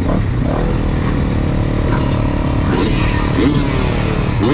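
Motocross bike engines running, with a brief rev about three and a half seconds in and the pitch falling away near the end.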